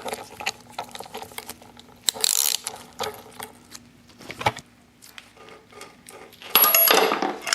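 Metal hand tools and parts clicking, clinking and scraping on a dirt bike's rear wheel hub during bearing work, with a louder scraping rattle about two seconds in and another near the end.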